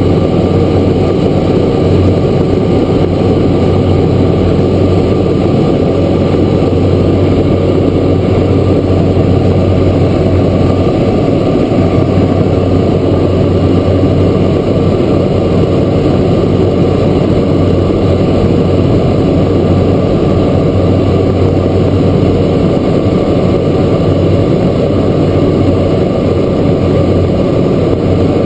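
Cessna Grand Caravan's Pratt & Whitney PT6A turboprop engine and propeller, heard from inside the cabin as a loud, steady drone with a deep hum that does not change.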